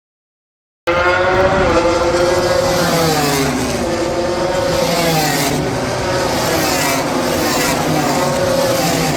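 Racing motorcycle engines running at high revs, their pitch falling and rising as the bikes brake, shift and accelerate. It starts abruptly after a moment of silence about a second in.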